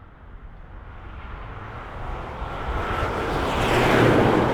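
2021 Ford F-150 EcoBoost's twin-turbo V6 pulling hard, its aftermarket cold air intake giving a rushing sound that builds to a peak about four seconds in, with a faint whistle just before the peak. It sounds like a freight train: on the stock exhaust, the intake and turbos make most of what is heard.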